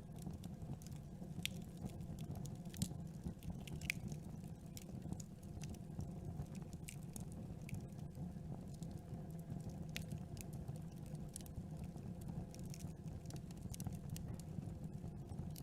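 Wood campfire burning: a steady low rush from the flames with frequent small crackles and pops, a few louder pops in the first few seconds.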